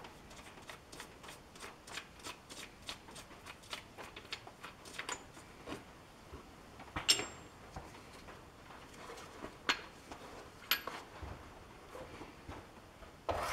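Light clicking, about three or four clicks a second for the first half, then a few louder separate clicks and taps, the sharpest about seven seconds in.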